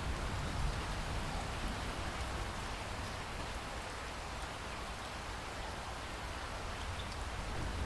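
Steady rain falling, an even hiss over a constant low rumble.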